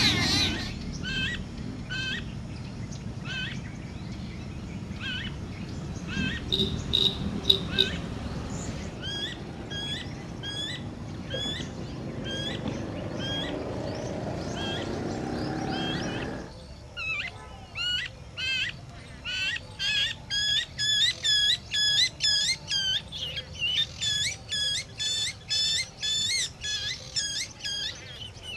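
Birds calling: one short shrill call repeated about twice a second over a low background rumble. About sixteen seconds in the rumble drops away, and the calls come faster and louder, about three a second.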